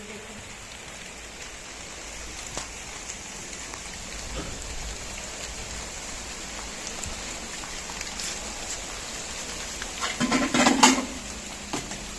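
Steady rain falling, with scattered separate drops ticking. A short, louder burst of sound breaks in about ten seconds in.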